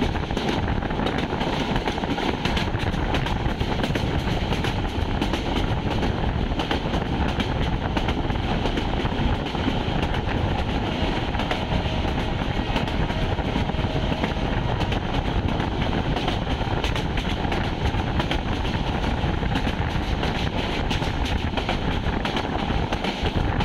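Metre-gauge intercity passenger train running at speed, heard from inside a coach: a steady rumble of wheels on rails, with many small clicks and knocks from the running gear.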